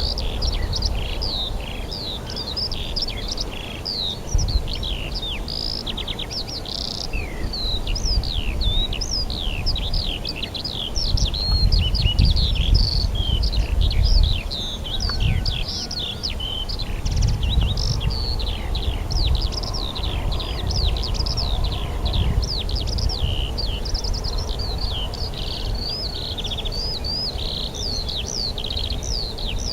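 A chorus of many small birds singing at once, a dense unbroken stream of rapid high chirps and short sweeping notes. Underneath is a low rumble that swells twice, around the middle.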